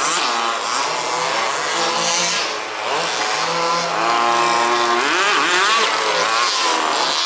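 Several 1/5th-scale petrol RC buggies with small two-stroke engines racing, revving up and backing off so that their overlapping pitches keep rising and falling.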